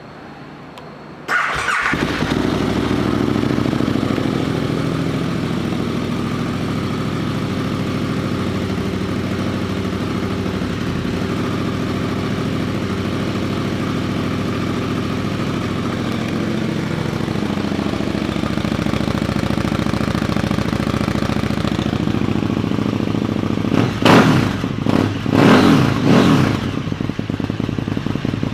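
2017 KTM 1290 Super Duke R's V-twin engine with an aftermarket Spark exhaust starting about a second in and settling into a steady idle. Near the end it is revved in three quick blips, then drops back to idle.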